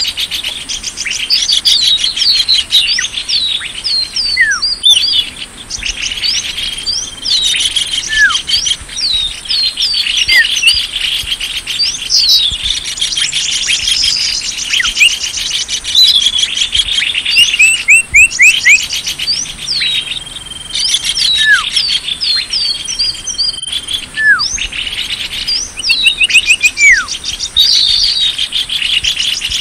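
Recorded lure call of small songbirds: a loud, dense chorus of many overlapping quick chirps and sweeping whistles over a thin steady high tone. It drops out briefly twice, about five seconds in and near twenty-three seconds, where the recording is spliced.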